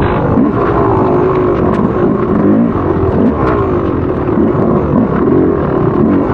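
Motocross dirt bike engine revving, its pitch rising and falling again and again as the throttle opens and closes, with a few sharp ticks.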